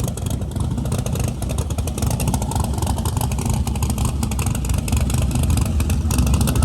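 Drag race car's engine running with a choppy, rapid firing rhythm, getting a little louder near the end.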